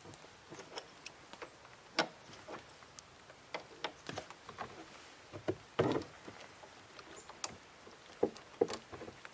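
Irregular knocks and clicks of boards and tools being handled, about a dozen sharp hits with the loudest about two and six seconds in.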